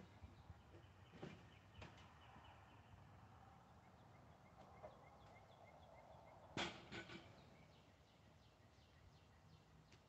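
Near silence with faint bird calls, a quick run of short high notes repeated several times a second, and a single sharp knock about two-thirds of the way through.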